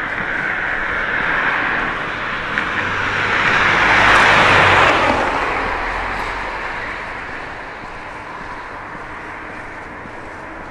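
A vehicle passing close by: its noise swells to a peak about four to five seconds in, then fades away.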